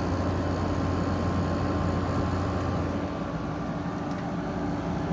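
General Electric 5,050 BTU window air conditioner running, its Gree compressor and fan giving a steady hum over rushing air. The deepest part of the hum drops away about three seconds in.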